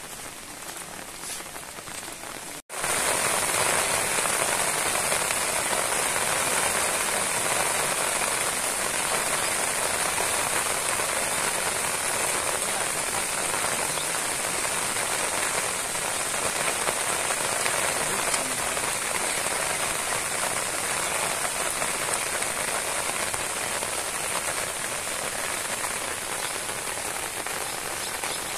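Steady heavy rain falling on a flooded rice paddy and the plants around it, an even dense hiss. About three seconds in, the sound cuts out for an instant and comes back louder.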